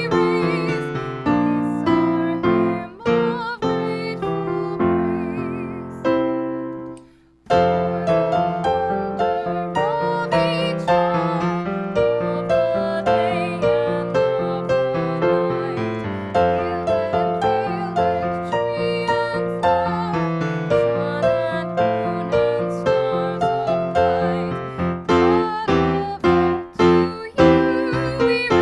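Piano music. It fades out about six seconds in, and a new passage starts abruptly a second later.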